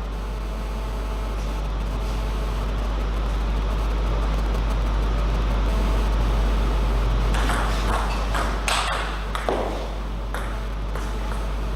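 Steady low hum under a constant haze of room noise in a sports hall, with a few short bursts of noise about seven to ten seconds in.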